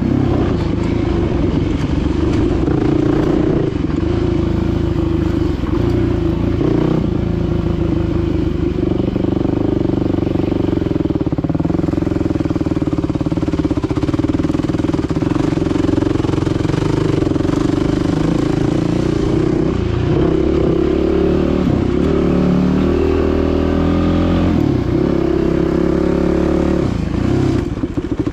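Dirt bike engine running under changing throttle, its pitch rising and falling as it is ridden. Near the end it drops to a lower, choppier note.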